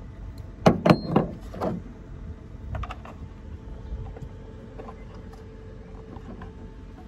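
A quick run of four or five sharp clicks and knocks about a second in, then a few lighter ticks: hard plastic parts being handled and snapped into place while a car tail light is fitted.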